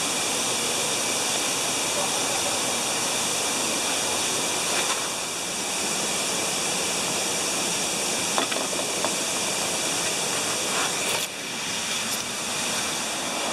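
Steady rushing of an artificial waterfall's falling water, with a few faint ticks in it.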